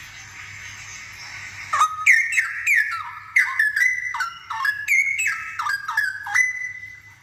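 Straw-headed bulbul (cucak rowo) in full song: a loud run of rich, bubbling whistled notes, most slurring downward, beginning about two seconds in and closing on a held note.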